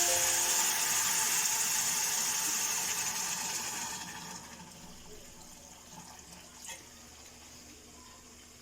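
A steady hiss of water, loudest at the start and fading away over about four seconds, leaving faint background noise with a couple of small ticks.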